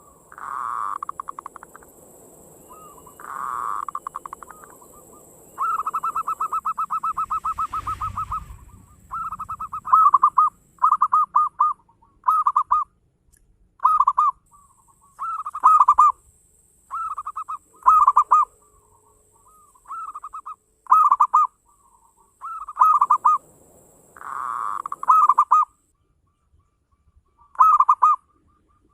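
Zebra dove (perkutut) cooing: a long, rapid rolling trill about six seconds in, then a run of short repeated cooing phrases every second or two.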